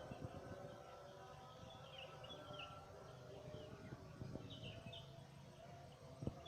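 Faint outdoor ambience with scattered bird chirps and a few soft low knocks.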